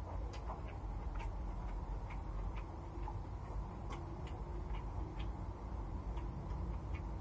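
Mouth sounds of someone eating rice and stir-fried water spinach by hand: faint wet clicks and smacks of chewing, roughly two a second and a little uneven, over a low steady hum.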